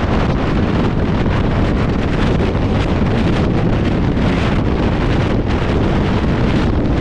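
Express passenger train running at speed, a steady loud rumble of the train mixed with wind buffeting the microphone.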